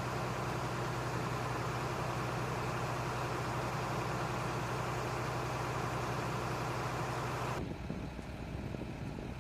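Steady engine drone with a low hum running under it. About seven and a half seconds in it cuts abruptly to a quieter, duller rumble.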